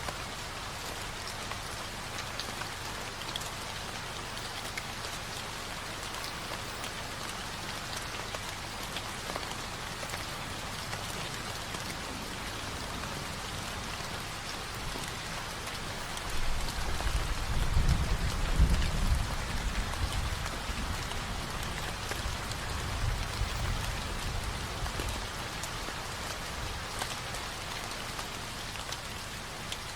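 Steady rain falling, an even patter of drops. About halfway through, a low rumble swells up, peaks, and fades away over several seconds.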